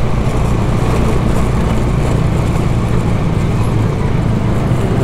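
Bajaj Dominar motorcycle's single-cylinder engine running steadily at low speed while the bike rolls over a cobblestone street.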